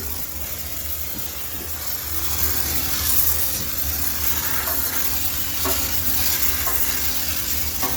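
High-pressure steam cleaner jetting steam into a washing machine, a steady hiss over a low hum, with a few faint knocks in the second half.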